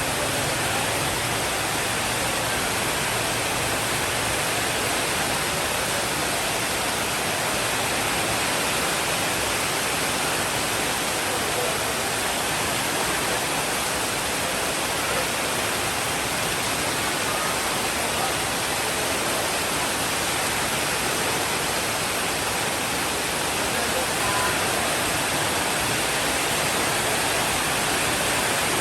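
Rain falling steadily as an even, unbroken hiss, with no thunder rolls standing out.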